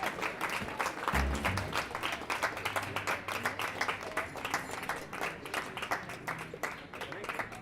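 Audience applause, many hands clapping, thinning out toward the end. A short low note or thump sounds about a second in.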